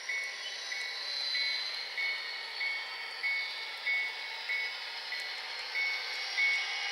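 HO scale model train running with a bell ringing in a steady rhythm, about one ring every 0.6 seconds, over a steady running hiss.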